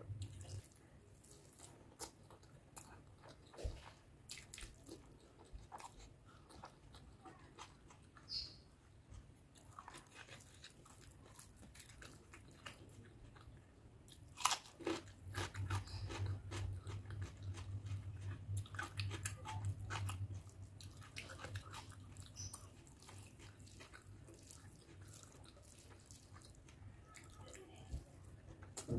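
Close-miked chewing of rice and curry: soft, irregular mouth clicks and crunches, with the sharpest crunch about halfway through, at a bite of raw cucumber.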